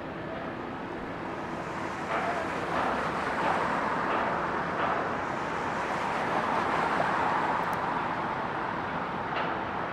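Road traffic noise from cars, swelling louder about two seconds in and easing off near the end.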